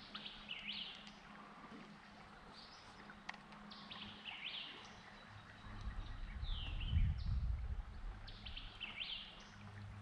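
Birds calling, a run of short chirps that each slide down in pitch, repeated every second or so. A low rumble swells in the middle and is loudest about seven seconds in.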